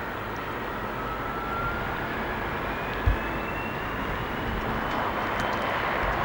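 Diesel train running with a steady rumble and a faint whine that slowly rises in pitch, and a single low thump about three seconds in.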